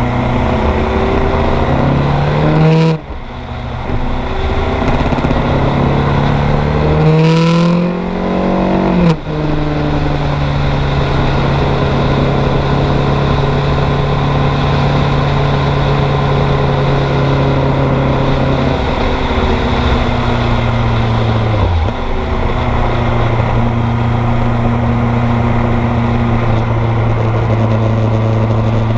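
Kawasaki GPZ900R's 908 cc inline-four engine, heard from the bike while riding: it revs up through the gears with upshifts about three and nine seconds in, then holds a steady speed, with a brief dip in revs a little over twenty seconds in.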